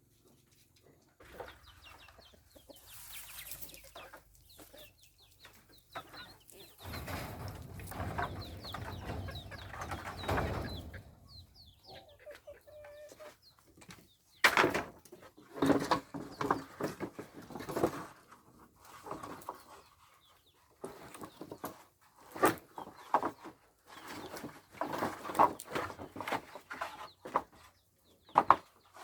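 Chickens clucking, with a few seconds of rustling noise about seven seconds in and a string of short, sharp knocks through the second half.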